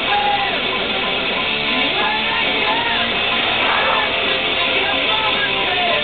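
Rock song on the truck cab's radio: strummed electric guitar with a voice singing.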